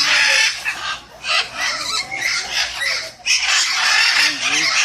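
A flock of parrots squawking loudly, harsh overlapping calls in several bursts with brief lulls about a second in and just after three seconds.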